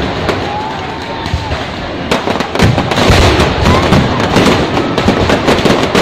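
Aerial fireworks crackling and banging in quick succession. The bursts come thicker and louder from about two seconds in.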